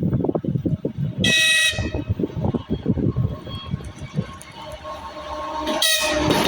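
2TE116U diesel locomotive's horn sounding a short blast about a second in, then a second blast starting near the end, over the low, uneven rumble of the approaching locomotive.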